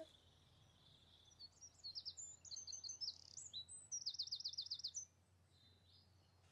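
Birdsong: a bird calls in quick high chirps, then gives a fast run of about eight repeated notes near the middle, over a faint hiss.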